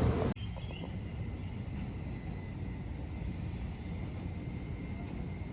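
A loud rushing noise cuts off abruptly a moment in. A small bird follows, calling in short, high, paired chirps that sweep downward, every second or two, over a low steady rumble.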